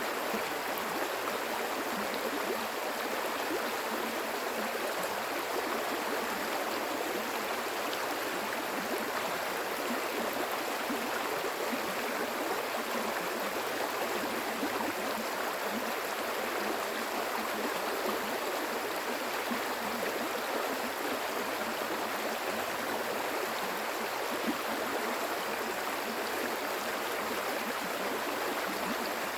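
Stream water flowing and burbling steadily, an even rushing with no breaks.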